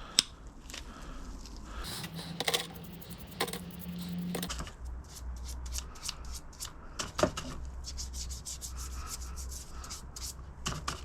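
Hand sanding with fine 180-grit sandpaper on a rusty metal part of a hydraulic jack: quick back-and-forth rubbing strokes, settling into an even rhythm of about three to four strokes a second after the first few seconds. A single sharp click comes just after the start.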